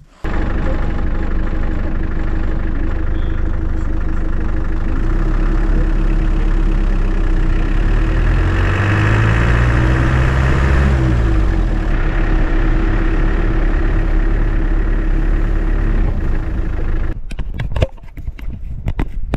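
Land Rover Defender driving slowly, its engine running steadily with road noise. About halfway the engine note rises and then falls as it speeds up and eases off. Near the end the engine sound drops away to quieter, uneven rustling and knocks.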